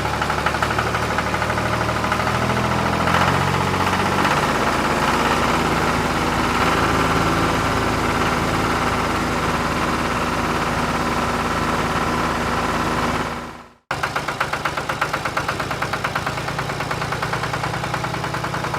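Engine idling with a fast, even knocking beat. About 14 seconds in it cuts out abruptly and comes straight back.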